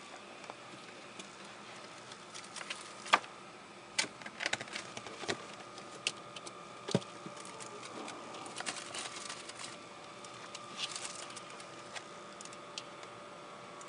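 A ferret rummaging about: scattered light clicks, taps and rustles at an irregular pace, over a faint steady hum.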